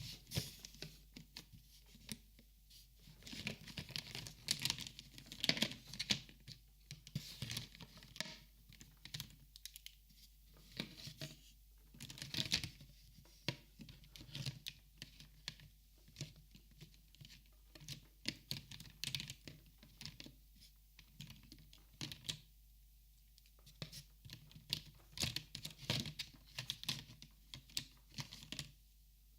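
Close-miked handling of markers and paper: irregular sharp clicks and taps mixed with stretches of paper crinkling and scratching, in clusters with short pauses between them.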